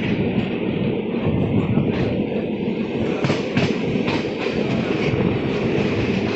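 Indian Railways passenger coach running along the track, heard from aboard: a loud, steady rumble of wheels on rails, with a series of sharp, irregular clacks from about two seconds in as the wheels cross rail joints.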